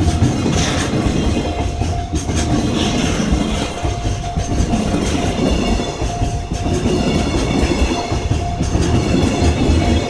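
Freight train passing close by, its wagon wheels clattering rhythmically over the rail joints, with a steady whining tone over the rumble.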